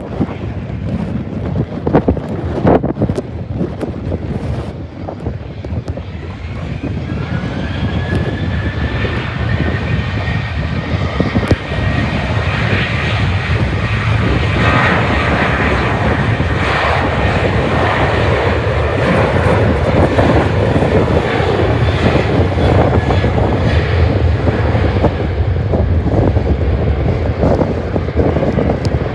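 Jet airliner's engines growing louder as it passes, with a high whine that rises slightly from about seven seconds in and then holds over a broad rumble. Wind buffets the microphone in the first few seconds.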